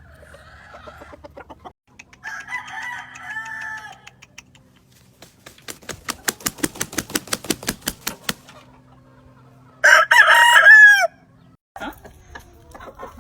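Roosters crowing: one crow about two seconds in and a louder one with a falling end about ten seconds in. Between them, a fast run of about a dozen sharp taps.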